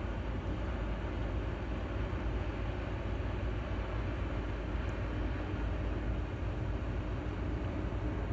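Steady low rumble of a cargo ship's diesel engines under way, with a faint steady hum on top and no change in pitch or level.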